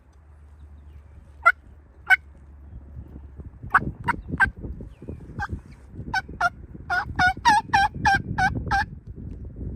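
Turkey yelping on a mouth call: two single sharp notes, a few scattered yelps, then a run of about eight yelps near the end. Each note breaks from a higher pitch to a lower one.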